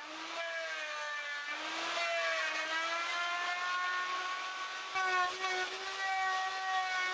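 A makeshift electric-motor rig spinning the bandsaw's unpowered upper wheel so it can be trued, giving a whine whose pitch dips and recovers a couple of times in the first two seconds, then rises and settles steady.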